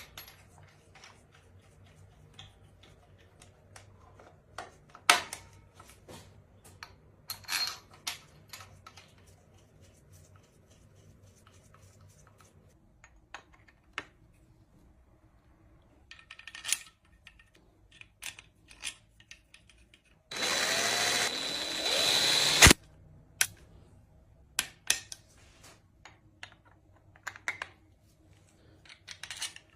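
Metal tools and parts clicking and knocking as they are handled, with a power tool, drill-like, whirring for about two seconds some twenty seconds in and stopping with a sharp click.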